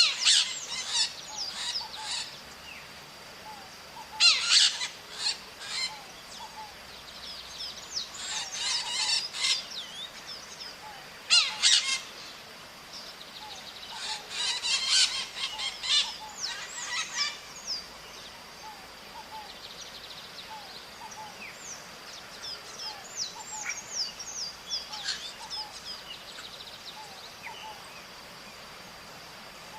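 Maritacas (small Brazilian parrots) calling in bursts of rapid, harsh calls, several at once, with a few seconds between bursts; the calls grow fainter and sparser in the second half. A thin steady high tone runs underneath.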